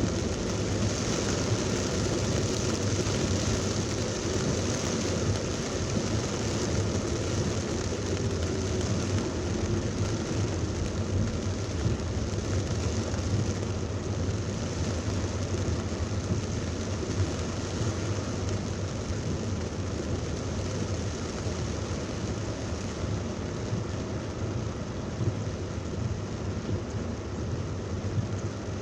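Heavy thunderstorm rain pouring steadily, with a low steady vehicle rumble underneath.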